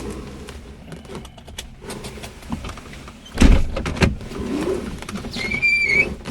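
Clicks and clunks of a Cessna 172S's seat and fittings being handled in the cockpit, with one loud thump about three and a half seconds in and a short high squeak near the end.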